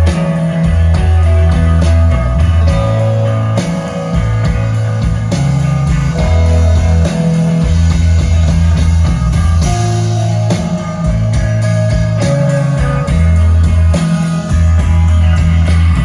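Live rock band playing an instrumental passage without singing: guitars over a bass line that moves from note to note every second or so.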